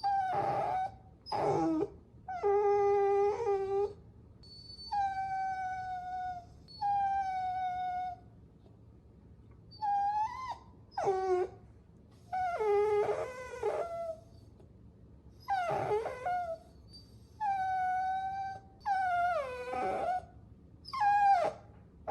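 Puppy whining: about a dozen separate high-pitched whines with short pauses between them, some held steady for a second or more and others short, sliding up or dropping in pitch.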